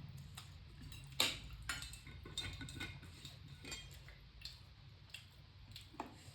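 Cutlery clicking and clinking against dishes in scattered light strikes, the loudest a little over a second in, over a steady low hum.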